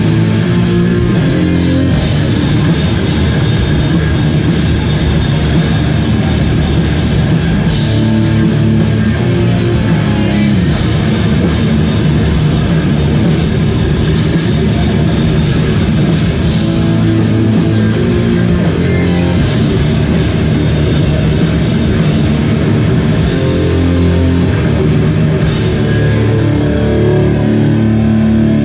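Live hardcore band playing loud, distorted electric guitars, bass and drums at a steady, full volume.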